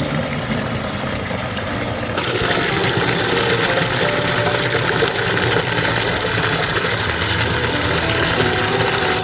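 A motor running steadily with a dense, even noise that turns harsher and brighter about two seconds in.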